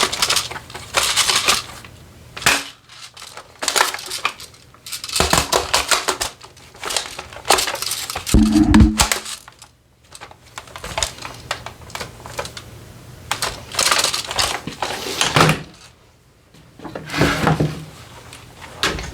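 Airsoft gun being reloaded by hand: bursts of small clicks and rattles, with a heavier knock about eight seconds in.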